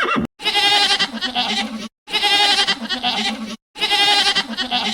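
Goat bleating: the same quavering bleat, about a second and a half long, comes three times in a row with short gaps of silence between. It follows a brief call that cuts off at the very start.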